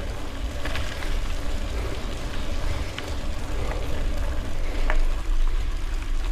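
Bicycle tyres rolling over gravel, giving a steady crunching hiss with scattered sharp clicks and rattles. Heavy wind rumble on the microphone runs underneath.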